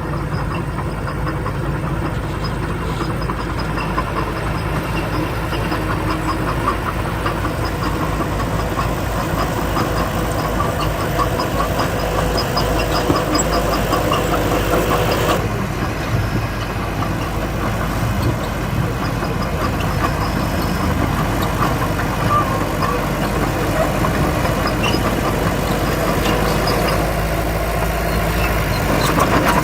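Diesel engine of heavy earthmoving machinery running steadily, with an abrupt change in the sound about halfway through.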